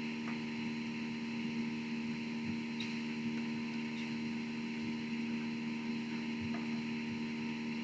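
Steady electrical hum and buzz from the audio system, an unchanging stack of low tones with a thin higher whine, with a few faint ticks; a fault hum of the kind behind the recording's sound issues.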